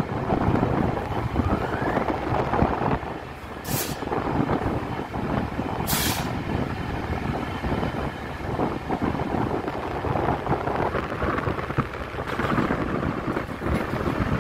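Train running, heard from the front of the train, with a steady rumble and two short hisses about two seconds apart.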